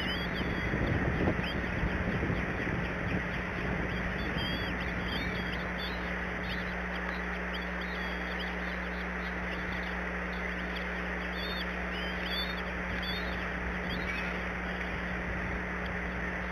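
Short, high bird calls repeating in quick scattered bursts, over a steady hiss and a constant low hum.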